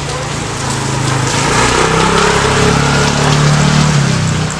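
Steady rain with the hum of a small engine running through it, swelling louder and slightly higher in the middle and easing back near the end.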